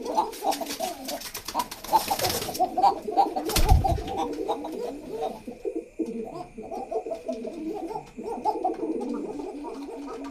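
Many domestic pigeons cooing at once, their low calls overlapping constantly. A rustling burst runs through the first two and a half seconds, and a single thump comes about four seconds in.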